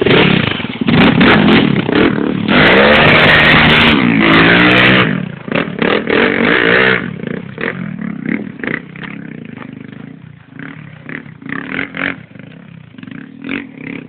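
Honda Tornado motorcycle's single-cylinder four-stroke engine, bored out to 340cc, revving hard for about the first five seconds with its pitch rising and falling. It then runs quieter, with scattered clattering knocks.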